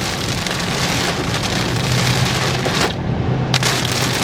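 Heavy rain falling on a moving vehicle, heard from inside the cabin as a loud, steady hiss over the low hum of the engine and tyres on wet road.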